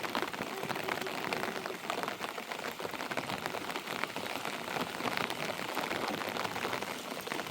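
Steady rain falling: an even hiss of many small drop impacts that holds at one level throughout.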